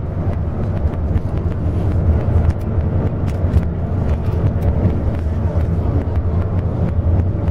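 Steady low rumble of a highway bus's engine and road noise heard inside the cabin while under way, with frequent small rattles and clicks from the bus body.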